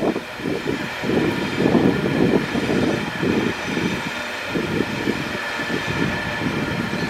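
Grain wagons of a freight train rolling past, the wheels rumbling and clunking in uneven surges, with a faint steady high-pitched whine over it.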